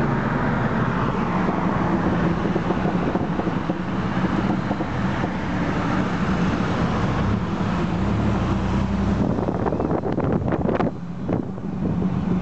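Porsche 911 flat-six engine running while driving, with steady road and wind noise heard from inside the car. A few knocks and a brief drop in level come near the end.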